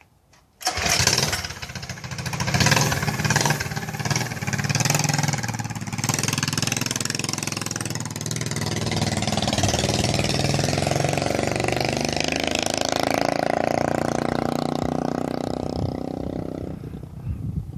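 Predator 212cc single-cylinder four-stroke engine on a motorized bike. It comes in suddenly about half a second in and runs hard under throttle, uneven for the first few seconds and then steady. Its level drops near the end.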